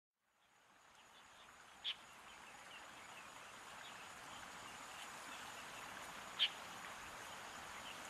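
Faint outdoor ambience fading in from silence, a soft hiss with many small, high bird chirps scattered through it. Two clearer short chirps stand out, about two seconds in and again about six and a half seconds in.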